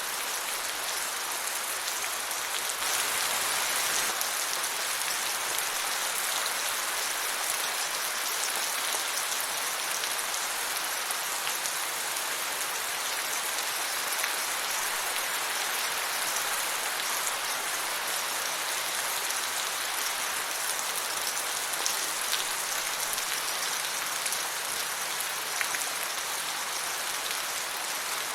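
Steady rain falling, with a few individual drops heard now and then.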